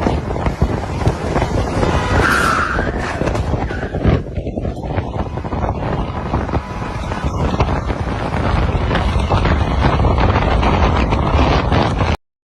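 A car driving, with steady road and wind rumble. There is a single thump about four seconds in, and the sound cuts off suddenly near the end.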